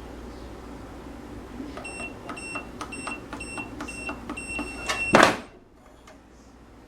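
Electronic keypad of a quick-access handgun safe: about six button presses, each a click with a short high beep, then a longer beep and a single loud clunk, typical of the lock releasing and the lid springing open.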